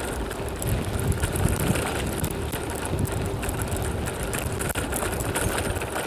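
Strong, gusty wind buffeting the microphone on a moving bicycle, a continuous low rumbling flutter that swells and dips.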